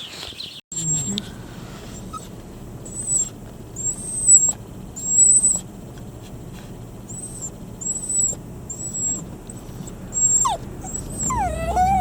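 Dog whining: a series of about ten short, high-pitched whines, then a longer wavering whine near the end.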